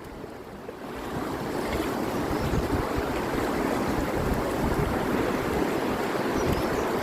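Steady rushing of river water around a raft, mixed with wind on the microphone; it swells up over about the first second, then holds steady.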